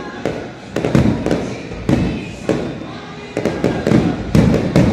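Aerial fireworks going off in an irregular string of booms and sharp cracks, a dozen or so, sometimes two or three in quick succession, each with a low rumbling tail.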